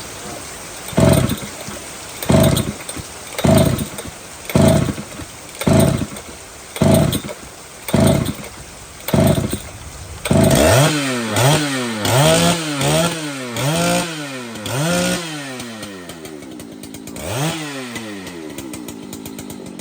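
Large professional chainsaw revved in short bursts about once a second, then revved up and down faster, several times in quick succession, before dropping back to idle near the end.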